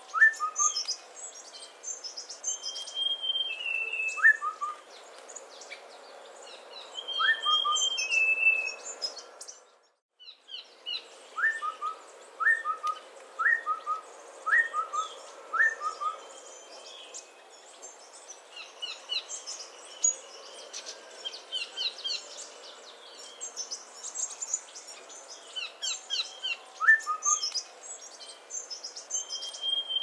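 Streak-breasted scimitar babbler calling in short falling two-note whistles, singly at first, then five in a row about a second apart. Busier, higher chirping from other birds runs alongside, with a longer falling whistle now and then. The sound cuts out briefly about a third of the way in.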